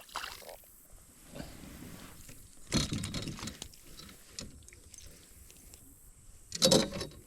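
Fishing reel being cranked as a small hooked fish is reeled in, with two louder knocks or rustles, one about three seconds in and the loudest near the end.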